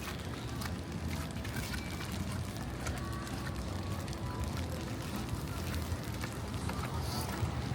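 Busy pedestrian street ambience: a steady murmur of passers-by's voices and city hum, with scattered footsteps and small clicks.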